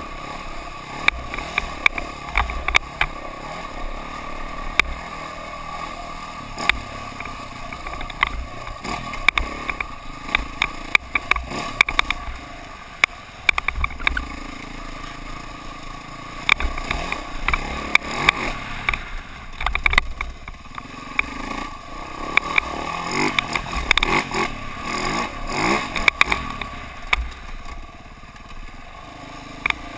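Dirt bike engine running and revving, its pitch rising and falling several times, with frequent knocks and clatter throughout.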